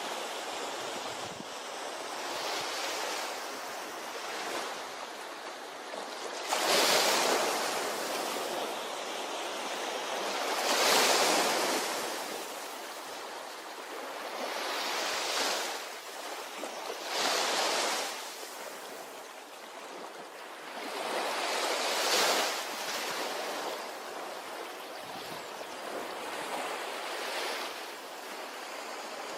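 Ocean waves breaking on a shore, the wash of surf rising and falling every few seconds, with the loudest breaks about 7, 11 and 22 seconds in.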